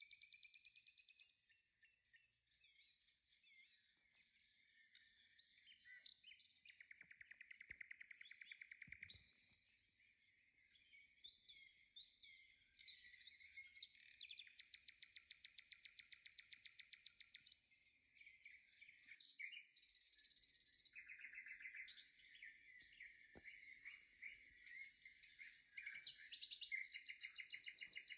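Faint birdsong: chirping and whistled phrases, broken by several rapid trills that last a couple of seconds each.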